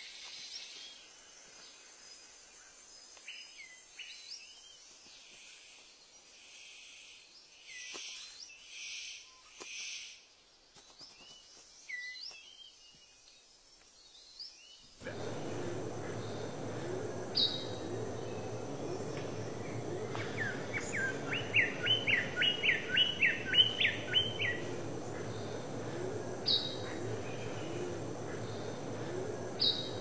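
Rainforest birdsong: faint scattered high calls, then a sudden rise in the steady forest background about halfway through. A king bird-of-paradise gives a fast run of about a dozen rising chirps lasting about four seconds, with single high notes before and after.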